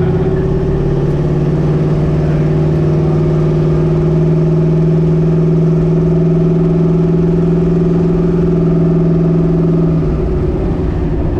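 Twin-turbo LS V8 in a Chevy S10 running at steady revs, a constant low engine note with no rise or fall in pitch; the note drops away about ten seconds in.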